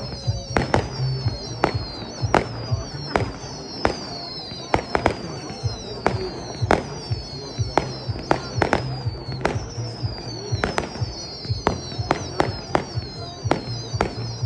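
Fireworks going off in quick succession: a string of sharp bangs, two or three a second, with high whistles that fall in pitch again and again.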